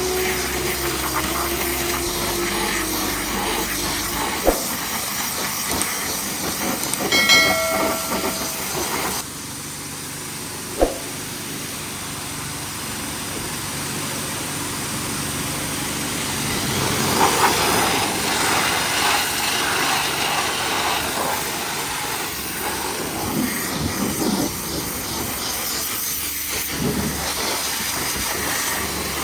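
High-pressure washer spraying water, a steady hiss, with a brief high tone about seven seconds in and two sharp clicks.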